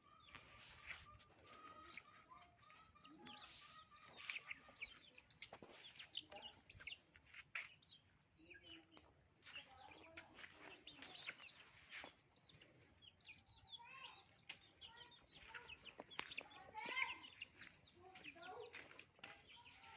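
Chickens clucking faintly, with many short scattered calls.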